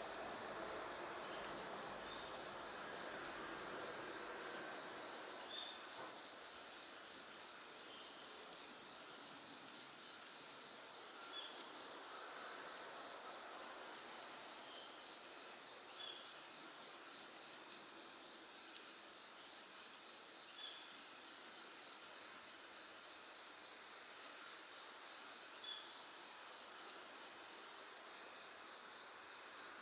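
Crickets chirping in a steady high-pitched chorus, with a separate chirp repeating every second or two. Under it is a soft hiss from the campfire, and one sharp crackle comes about two-thirds of the way through.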